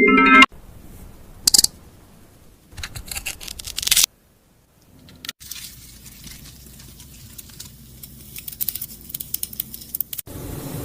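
Crisp crackling and tearing sounds of a knife cutting through food, in short runs: a sharp crunch about a second and a half in, a rising run of crackles, a pause, then scattered crackles that stop abruptly near the end.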